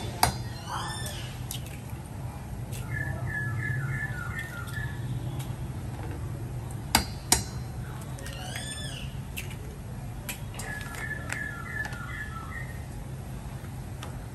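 Birds calling: a repeated arching whistled call and a quick run of chirps, each heard twice. Sharp taps of an egg being cracked against the rim of a stainless steel bowl, loudest as a pair about seven seconds in.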